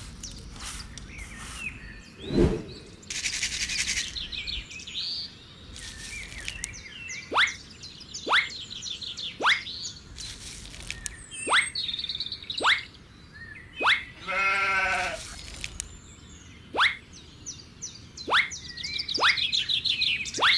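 Birds chirping, with a run of short falling whistles about a second apart, and a single bleat about two-thirds of the way through.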